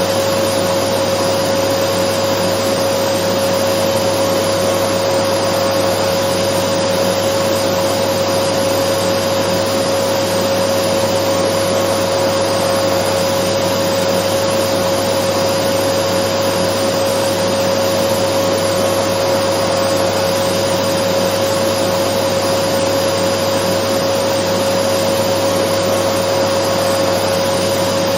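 Dyson vacuum cleaner running steadily: a constant rush of air with a steady high tone over it, unchanging throughout.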